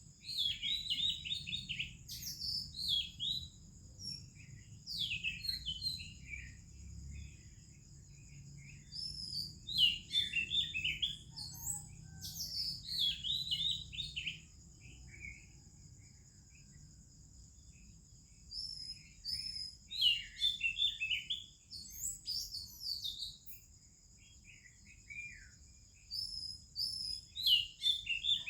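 Oriental magpie-robin and other birds singing: bouts of quick, varied whistles and chirps, with short pauses between bouts. A steady, thin, high-pitched double tone runs underneath throughout.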